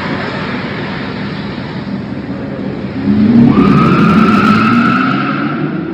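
A car's tires squealing in a hard turn, starting about three seconds in and lasting roughly two seconds, over a steady background rumble.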